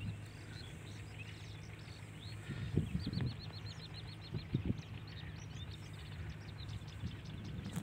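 Faint open-field ambience with a low steady hum. A bird gives a quick run of repeated high chirps about three seconds in, with a few other scattered chirps. A few soft low thumps come along with it.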